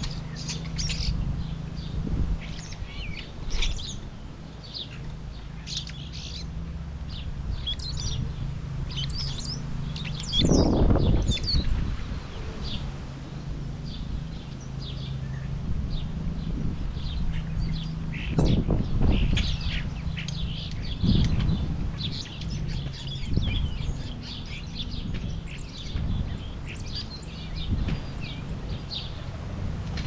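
Many small wild birds chirping, short high calls overlapping one another, over a low steady hum. A few louder, low rushes of noise break in about ten seconds in and twice more later.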